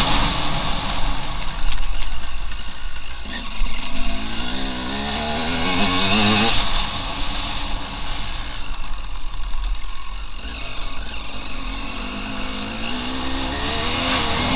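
Enduro motorcycle engine running hard, its pitch climbing several times as the throttle is held open and dropping back in between, over a steady rushing hiss.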